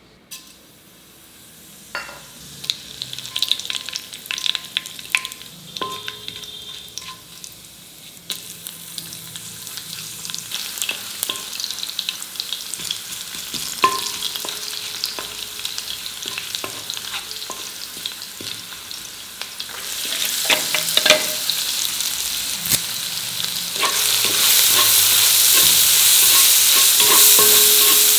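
Whole spices and garlic crackling and sizzling in hot oil in a kadai, stirred and scraped with a wooden spatula. The sizzle grows louder about twenty seconds in and again a few seconds later, and chopped onions are frying and being stirred near the end.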